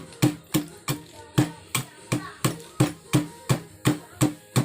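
Steady hammer blows on metal, about three a second, each ringing briefly.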